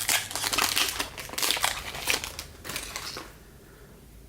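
Crinkling of a trading-card pack wrapper being handled and torn open, in a run of crackly bursts that dies away about three seconds in.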